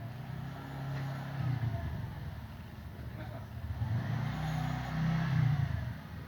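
A motor vehicle's engine running and passing, with a steady low hum that swells to its loudest about five seconds in.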